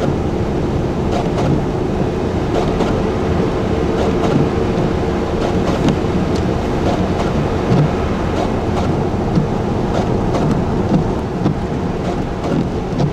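Steady rumble of a car driving on a snow-covered interstate: tyre and road noise with engine hum, and scattered light clicks.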